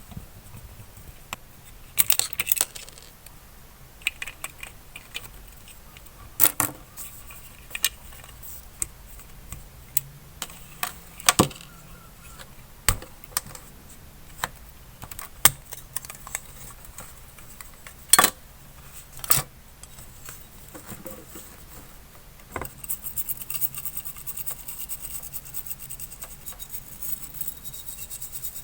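Small metal parts and hand tools clicking and clinking as a diecast model car is worked on, in scattered sharp taps. A few seconds before the end they give way to a fast, continuous run of light ticking and scratching.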